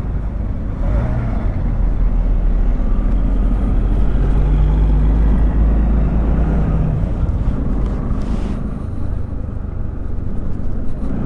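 Motorcycle riding along a rough road: the engine runs steadily under a heavy low rumble of wind and road noise, its note clearest for a few seconds in the middle.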